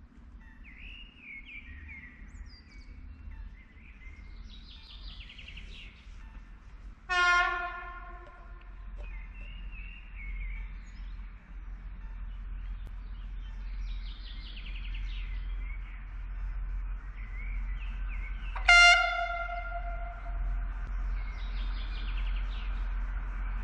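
Polregio SA133 diesel railcars approaching and sounding a two-tone warning horn twice, short blasts about 11 seconds apart. Under the horn, the low engine rumble grows louder as the train nears.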